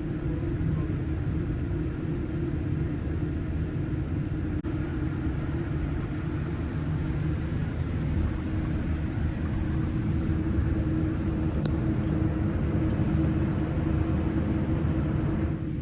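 Steady low rumble of a Boeing 787-9 airliner cabin, the engines' noise carried into the cabin with a constant hum and no sharp events.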